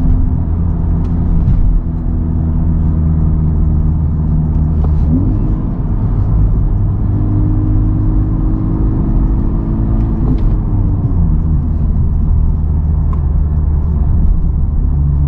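Honda Civic Type R's 2.0-litre turbocharged four-cylinder with an AWE Touring cat-back exhaust, heard from inside the cabin with the windows closed while cruising at moderate revs: a steady low drone whose pitch changes about five seconds in and again near eleven seconds.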